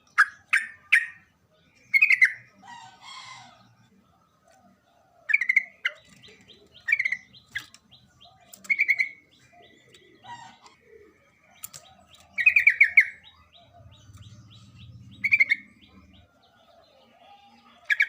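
Yellow-vented bulbul (trucukan) calling: short, bright chirpy phrases repeated every second or two, with a longer, rapidly repeated phrase about twelve seconds in.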